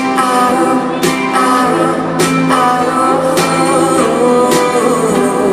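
A live acoustic band playing: guitar strumming with a steady beat about once a second under sustained singing.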